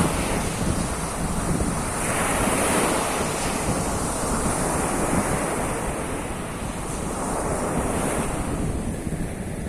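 Sea of Azov surf washing onto the shore, the rush of the waves swelling and easing every few seconds, with wind buffeting the microphone.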